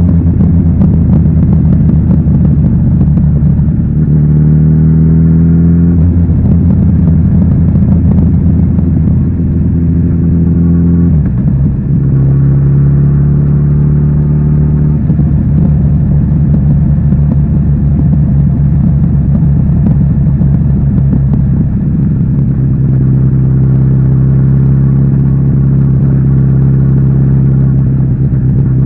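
Kawasaki Z900RS inline-four running through its stock exhaust while under way. The engine note climbs about four seconds in, drops, climbs again about twelve seconds in, then holds fairly steady.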